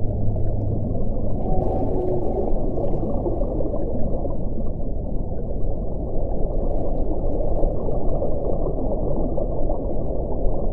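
Wind: a steady, low rushing with faint held tones drifting in and out.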